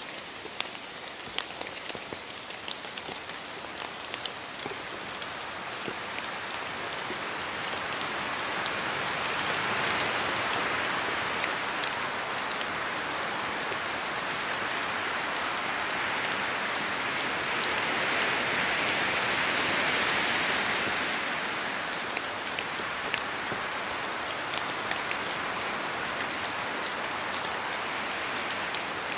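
Steady rain with many separate drops ticking close by, and wind rising and falling in two swells, about ten and about twenty seconds in.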